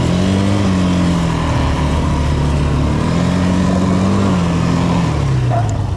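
ATV (quad bike) engine revving up and easing off twice, as the quad is backed up and turned.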